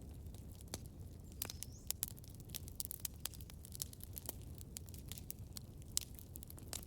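Campfire crackling: irregular sharp pops and snaps of burning wood over a low steady rumble of the flames, with one louder pop about six seconds in. A brief high whistle rises about a second and a half in.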